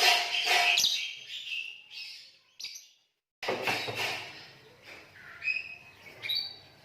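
Lovebirds chattering in rapid, high chirps and trills, loudest in the first second. The sound cuts out completely for a split second about halfway, then the chirping resumes.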